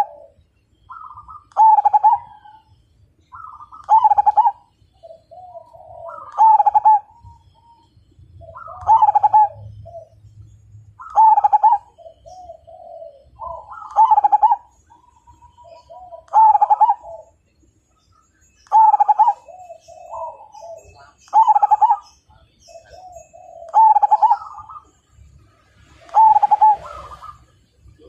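Zebra dove (perkutut) singing its rhythmic cooing song, one phrase about every two and a half seconds, about a dozen times. Faint high chirping sits behind it in the second half.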